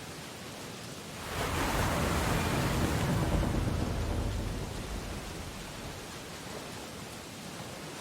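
Ocean waves on a beach. A wave breaks about a second in, swells to its loudest near the middle and washes back out over a few seconds, over a steady hiss of surf.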